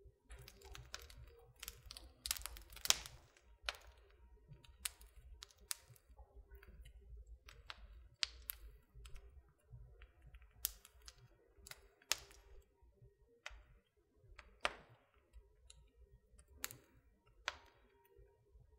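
Wood fire crackling in a fireplace: irregular sharp pops and snaps, a quick cluster of louder ones about two to three seconds in, over a faint low rumble of the flames.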